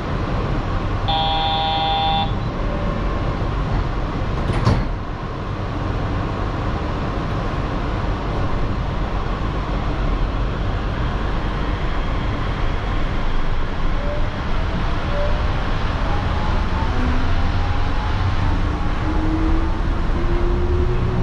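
Yurikamome rubber-tyred automated train pulling out of a station. A short electronic chime sounds near the start and a sharp knock follows a few seconds later. From about two-thirds of the way through, the electric drive's whine rises in pitch as the train gathers speed over steady running noise.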